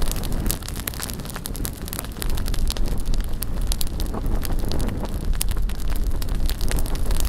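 Wood bonfire crackling with frequent sharp pops, over a low rumble of wind on the microphone.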